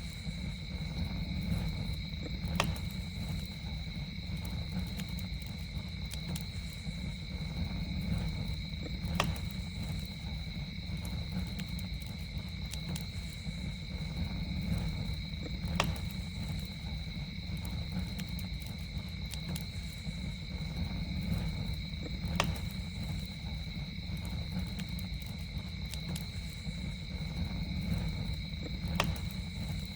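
Campfire burning with a steady low rumble and sharp pops about every six and a half seconds, over a constant high-pitched insect drone.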